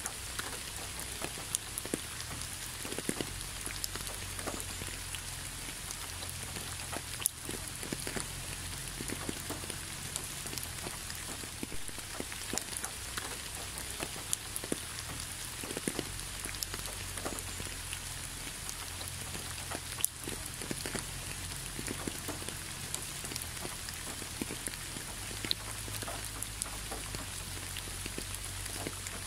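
Steady rain, with many separate drops tapping and a few sharper drips standing out, about 7 and 20 seconds in, over a low steady rumble.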